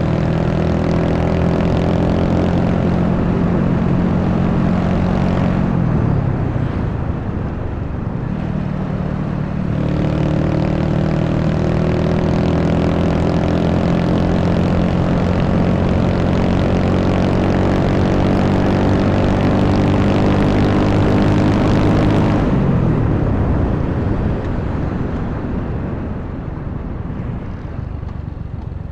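Honda Wave 125's single-cylinder four-stroke engine running at a steady cruise, with wind rushing over the microphone. The engine note drops about six seconds in, picks back up a few seconds later, then falls away again from a little past twenty seconds as the throttle is eased off.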